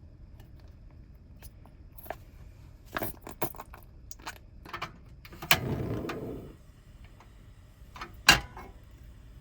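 Objects being handled: a scatter of small clicks and knocks, a rustling scrape lasting about a second midway, and one sharp knock near the end, the loudest sound.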